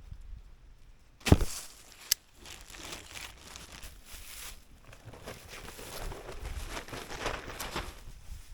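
Plastic tarp being handled and pulled over a frame, crinkling and rustling in uneven bursts, with a loud sharp snap about a second in and a short click soon after.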